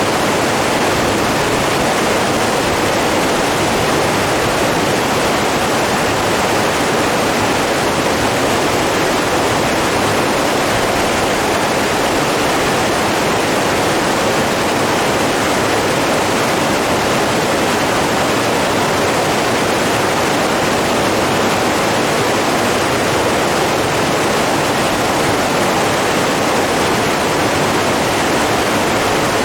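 Steady, unbroken rushing of running water, loud and even throughout with no rhythm of waves.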